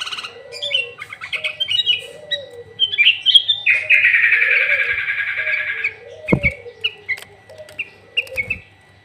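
Sooty-headed bulbul (kutilang) singing loudly: quick chirps and trills, a long buzzy chattering trill in the middle, then short separate chirps. A lower warbling runs underneath, and there are two soft thumps in the second half.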